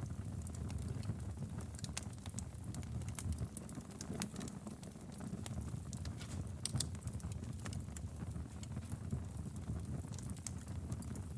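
Wood fire burning in a fireplace: a steady low rumble of flame with irregular sharp crackles and pops, a few louder snaps scattered through.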